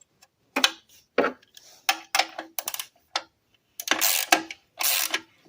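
A few light metal clinks of hand tools, then from about four seconds in a socket ratchet clicking in strokes of about half a second each as a bolt is worked.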